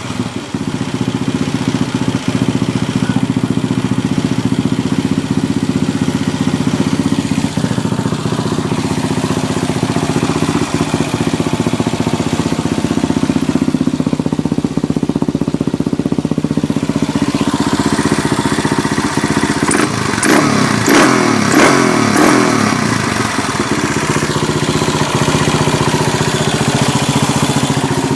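Yamaha SR single-cylinder four-stroke motorcycle engine running at idle through its exhaust. About two-thirds of the way through, a few seconds of brighter, busier sound with sharp crackles come in over the idle.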